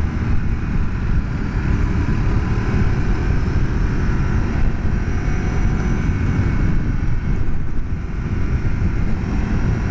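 Ducati 848's V-twin engine running at a steady cruise while the bike rides along, mixed with a steady rush of wind and road noise.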